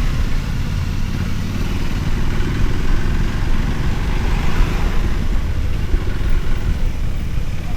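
Motorcycle running steadily on the road, a continuous low engine rumble under a steady rush of noise.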